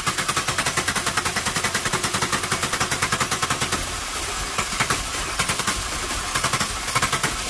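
1995 VW Golf MK3 GTI four-cylinder engine being cranked on the starter motor: a fast, even chugging that eases briefly about four seconds in, then carries on. The engine turns over but does not fire up.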